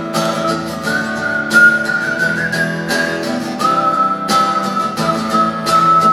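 A man whistling a solo melody in long held notes over strummed acoustic guitar.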